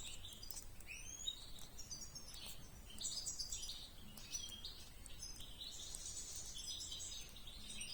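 Small birds chirping: a steady scatter of faint, high, quick chirps, with a few short rising notes near the start.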